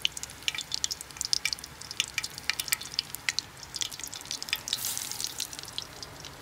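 Battered celery stalks deep-frying in hot vegetable oil in a pan: a steady, irregular crackle and spitting, with a brief louder hiss about five seconds in.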